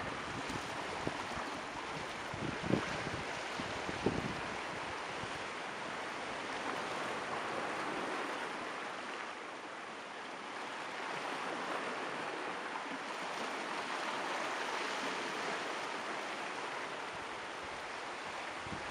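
Ocean surf rushing steadily, slowly swelling and easing, with two low thumps about three and four seconds in.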